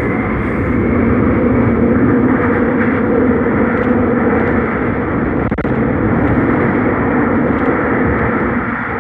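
Seoul Subway Line 5 train running at speed: a steady loud rumble and roar of wheels on rail and traction equipment, with a few faint clicks.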